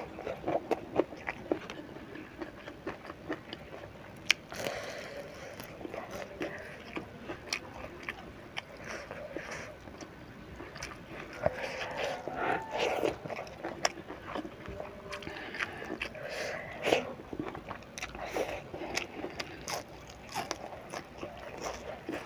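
Close-up chewing of a mouthful of rice and crispy fried sepat fish, with many short, sharp crunches and wet mouth clicks.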